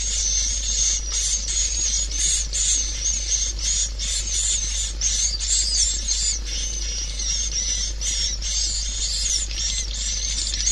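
Swiftlets twittering and chattering continuously, many short high chirps overlapping with no pause, over a steady low hum. This is the kind of swiftlet call recording played through tweeters to lure swiftlets into a nesting house.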